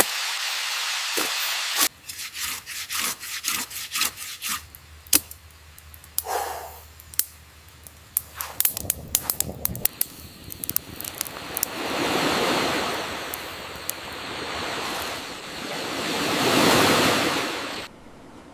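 Wood and plant material being worked by hand: a steady hiss at first, then a run of sharp knocks and taps over several seconds, then two long swelling rubbing or rustling sounds.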